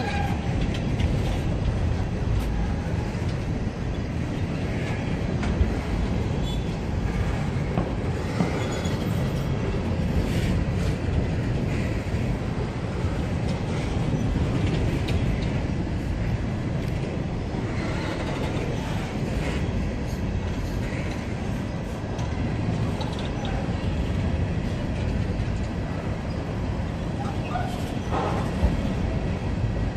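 BNSF freight train's cars rolling past at close range: a steady rumble of steel wheels on rail, broken by occasional clicks and clanks.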